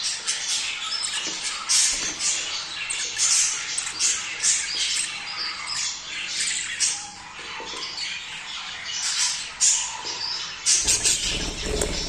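Budgies chattering with frequent squawks and chirps, many short calls overlapping without a break, the kind of warbling used as a breeding-stimulation call. A low rumble joins in near the end.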